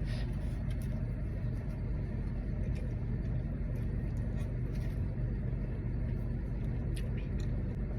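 Steady low rumble of a running vehicle, with faint small clicks of chewing over it.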